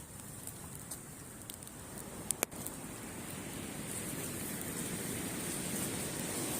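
Wood campfire crackling with a few sharp pops in the first half, over the steady rush of surf breaking on the beach, which swells louder from about halfway through.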